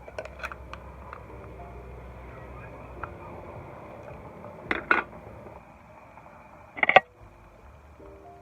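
A few sharp clicks and knocks, two in quick succession about halfway through and a louder short one near the end, over faint background music.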